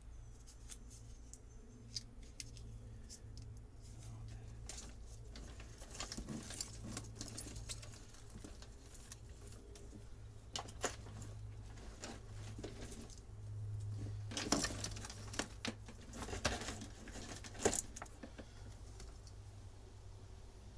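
Hands working through old boat wiring, making scattered light clicks, rattles and rustles, with a few sharper clacks in the later part.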